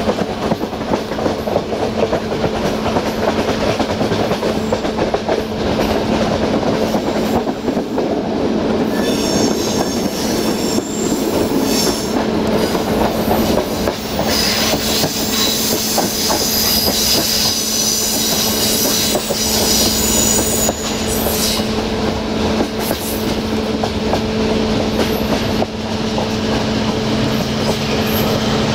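Ride aboard a passenger train behind an LDH1500 diesel-hydraulic locomotive, heard from an open window: wheels rumbling and clicking over rail joints and switches, with a steady low hum underneath. From about nine seconds in to about twenty-one seconds in, a high-pitched wheel squeal rises over it as the train runs through the station's curved turnouts.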